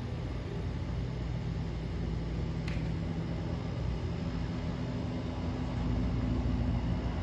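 Helicopter in flight, a steady low drone of rotor and engine, with one brief sharp click about two and a half seconds in.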